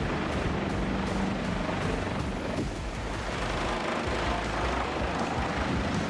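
Large wood chipper running under load: a steady, heavy rumble of engine and cutting noise.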